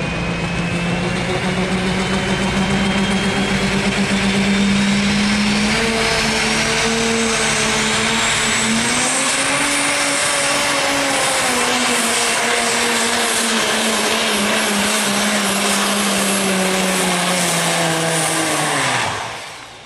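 Super stock diesel pickup engine running at full throttle through a sled pull. A turbocharger whistle climbs steadily in pitch over the first ten seconds and then holds high. Near the end the engine shuts off suddenly.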